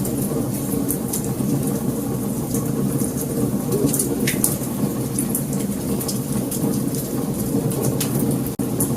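Wood fire burning: a steady low rumble of flames with frequent sharp crackles and pops. The sound drops out for an instant near the end.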